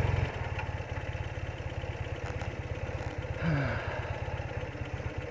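BMW R80RT's air-cooled flat-twin engine idling steadily. About three and a half seconds in, a passing vehicle rises briefly and drops in pitch as it goes by.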